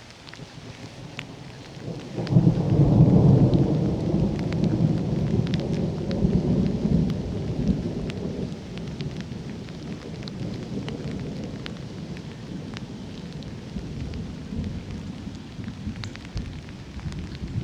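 Thunder rolling through a rainstorm: a low rumble rises about two seconds in, peaks, then rumbles on and slowly fades, with a fresh swell near the end. Scattered raindrop ticks run throughout.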